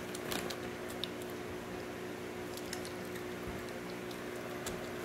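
Close-up chewing: soft wet mouth clicks and squishes from someone eating, over a steady low hum.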